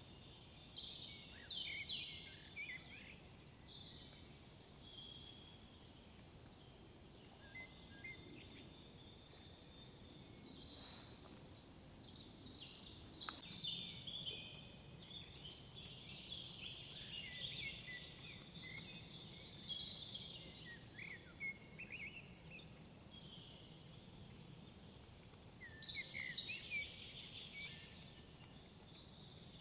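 Songbirds singing: several bursts of quick, varied song phrases come and go, louder around the middle and near the end, with a thin high trill now and then.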